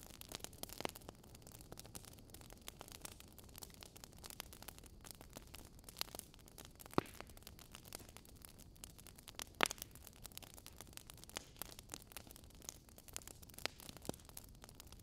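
Wood fire crackling in a fireplace: a soft steady hiss with irregular small crackles and a few louder pops, one about seven seconds in and another about two and a half seconds later.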